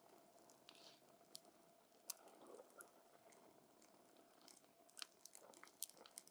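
Wood campfire burning quietly, with irregular sharp crackles and pops, the loudest about two seconds in and around five to six seconds in.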